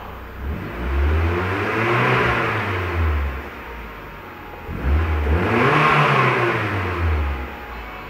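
Turbocharged 1.8-litre four-cylinder engine of a 2004 Mazdaspeed Miata, revved twice while the car is standing still, heard from inside the cabin. Each rev rises in pitch over about a second and a half, then falls back toward idle.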